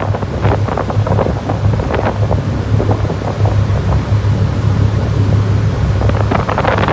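A ship's engine running with a steady low drone, under wind buffeting the microphone with scattered crackles.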